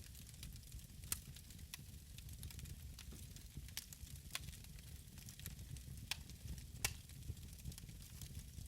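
Wood fire burning in a fireplace: a steady low rumble of the flames with scattered sharp crackles and pops, a few louder ones standing out.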